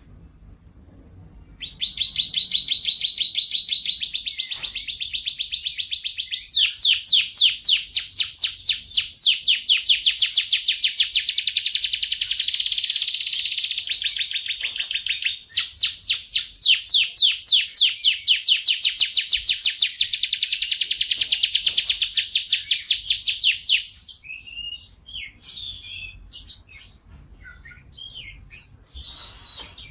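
Domestic canary (F1 YS) singing a long, loud song of held whistled notes and rapid rolling trills, starting about two seconds in with a brief dip around the middle. Near the end the song breaks off into softer scattered chirps.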